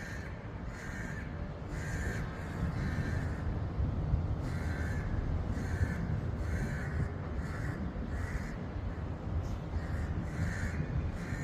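Birds giving short repeated calls, about one every half to one second with a few short pauses, as they mob a cat. A steady low rumble runs underneath.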